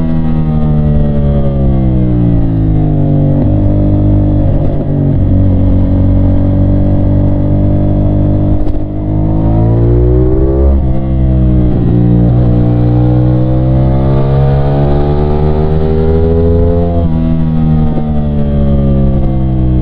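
CFMOTO 450SR's 450cc parallel-twin engine under riding, with revs rising and falling through the gears. The engine note drops over the first couple of seconds and breaks briefly about nine seconds in, as at a gear change. It then climbs, falls again near seventeen seconds and starts climbing once more near the end.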